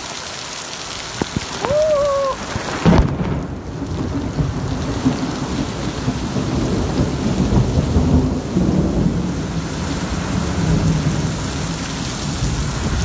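Heavy rain pouring down with thunder rumbling through a thunderstorm.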